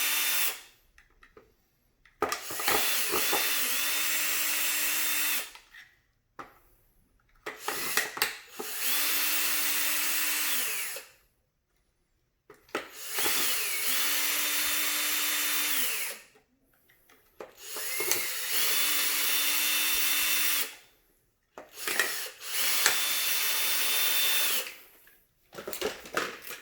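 A power drill fitted with a screwdriver bit runs in about six bursts of roughly three seconds each, driving out the screws that hold a vacuum cleaner's cyclone assembly together. Each burst winds up, holds a steady whine, then winds down, with clicks of handling in the short gaps between.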